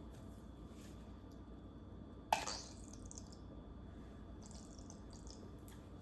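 A single sharp click about two seconds in, followed by a few faint handling noises, over a low steady room hum.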